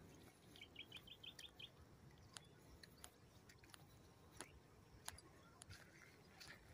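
Near silence with a faint quick run of about eight bird chirps about half a second in, then a few scattered faint clicks.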